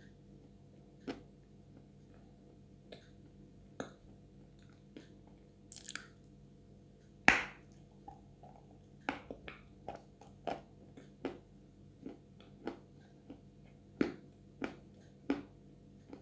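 Close-up mouth sounds of chewing a thick, sticky edible clay paste (Chuy clay): sharp wet clicks and smacks as the mouth and tongue pull off the paste. One loud smack comes about seven seconds in, and after that they come faster, about two a second.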